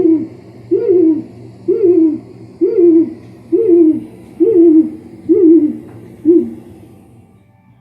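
Arduino bird scarer playing a recorded hooting call through its speaker: eight loud hoots about a second apart, each rising then falling in pitch, stopping about six and a half seconds in.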